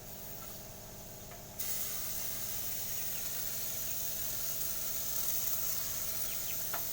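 Steady hiss of paint being sprayed, starting suddenly about a second and a half in and cutting off abruptly near the end.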